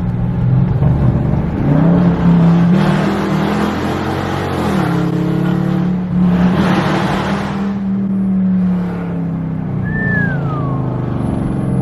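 2017 Dodge Charger R/T's 5.7 L Hemi V8 with a full straight-pipe exhaust, running under throttle: the engine note steps up about two seconds in and holds, with two louder surges. A short falling squeal comes near the end.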